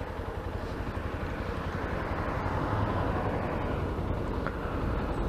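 Yamaha XTZ 250 Ténéré's single-cylinder engine running under way, with road and wind noise, gradually getting louder.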